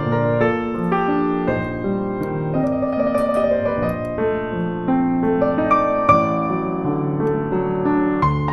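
Soft background piano music: a slow melody over sustained chords.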